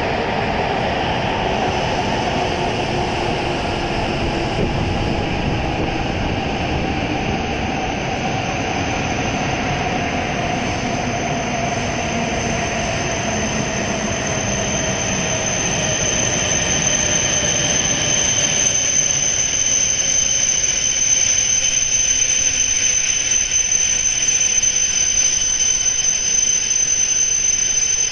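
E7-series Shinkansen train rolling along the platform and slowing to a stop. Its motor whine falls steadily in pitch, and from about halfway a high, steady squeal grows louder as it brakes toward a halt.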